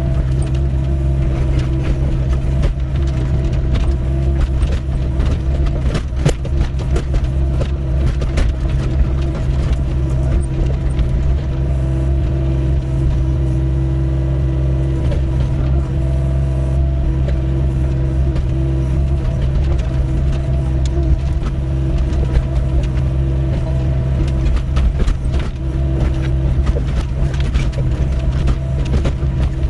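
Doosan 55W wheeled excavator's diesel engine running steadily under load, with a steady hydraulic whine and scattered knocks and scrapes as it works.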